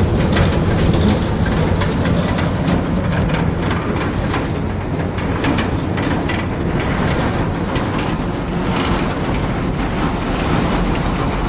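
Freightliner cabover feed truck's diesel engine running steadily, with many small clicks and rattles over its low rumble.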